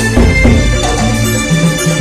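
Kuntulan music: a traditional Banyuwangi ensemble playing, with held pitched notes stepping in the bass and percussion strokes over them.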